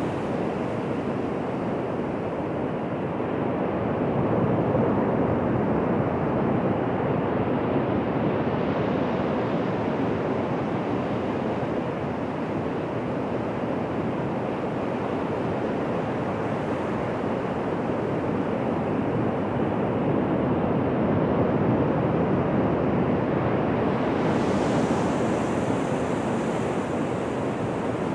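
Ocean surf washing onto a beach: a steady rushing wash of waves that swells gently twice, with a brighter hiss joining near the end.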